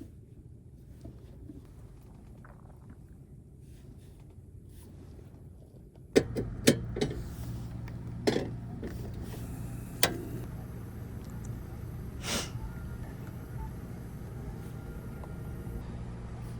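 A motor starts running with a steady low hum about six seconds in, with several sharp knocks and clicks over it; before that there is only a quiet low rumble.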